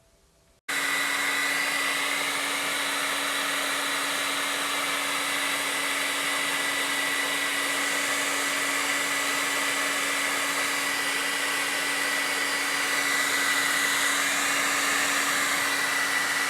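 Handheld hair dryer switched on just under a second in and running steadily, a loud rushing blow with a steady low hum and a high whine, drying wet paint on an art journal page.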